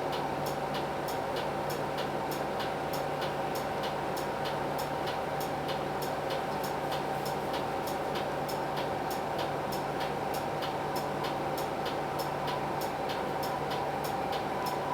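Hino Blue Ribbon City bus's P11C 10.5-litre diesel engine running at a steady, unchanging pace, with a faint steady whine above the hum. An even, quick ticking goes on throughout.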